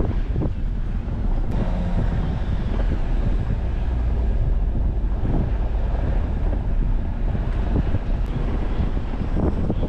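Jeep Wrangler driving a mountain road: a steady low rumble of engine and tyres, with wind on the microphone and a few thumps.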